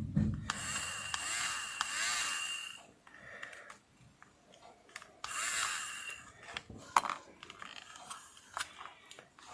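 Small plastic parts of a lint remover being handled: scraping for about three seconds, another brief scrape a couple of seconds later, then a few light clicks.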